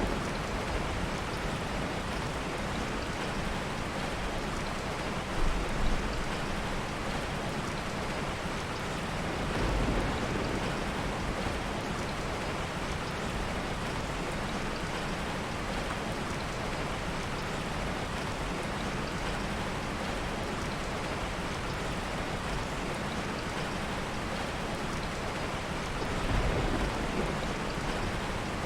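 Steady heavy rain, with soft low thunder swelling up briefly a few times, about a third of the way in and again near the end.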